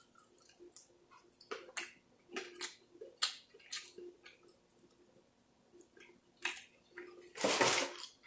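Close-up eating sounds of a person chewing saucy chicken wings: scattered wet mouth clicks and lip smacks, with one louder, longer noisy sound near the end.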